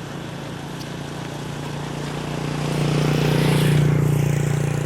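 A motor vehicle passing on the road: a steady engine hum that grows louder to a peak about three and a half seconds in, then fades as it goes by.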